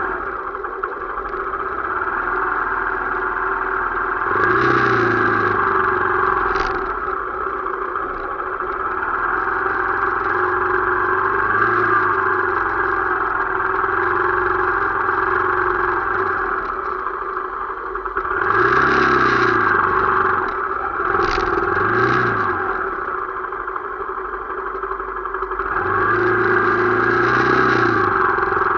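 Motorcycle engine running steadily while riding. The noise swells louder several times, with brief rises and falls in pitch.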